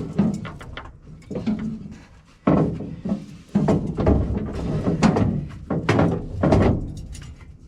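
Irregular knocks and clanks from hand work on farm machinery, a dozen or so strikes of varying loudness, some ringing briefly.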